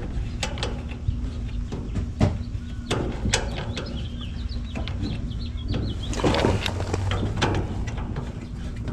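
Clicks and knocks of tools and parts being handled over a steady low hum, with a few short bird chirps in the middle.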